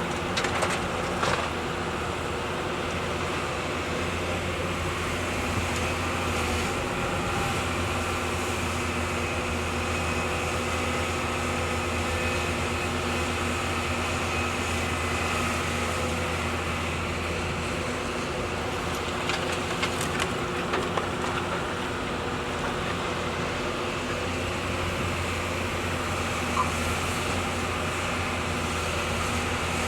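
Heavy diesel engine of an excavator running steadily at constant speed, with a few short knocks about a second in and again around twenty seconds in.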